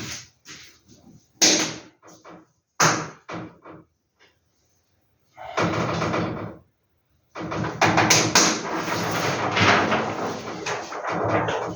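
Posters and their packaging being handled: two sharp knocks and a few light clicks early on, then a short stretch and a long stretch of rustling.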